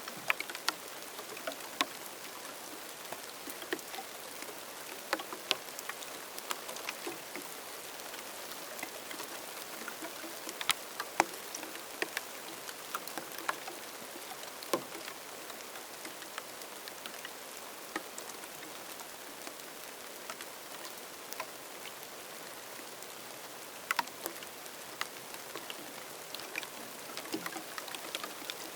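Rain falling in the Namib desert: a steady hiss with individual drops ticking sharply and irregularly over it, a few landing much louder than the rest.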